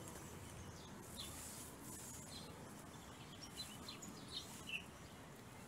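Faint outdoor background hum with several short, high bird chirps scattered through it.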